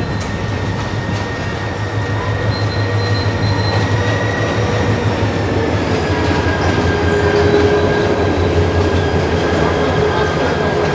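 Karnafuli Express passenger train rolling slowly along the station track: a steady rumble with a low hum and faint, drawn-out wheel squeal tones, growing a little louder midway.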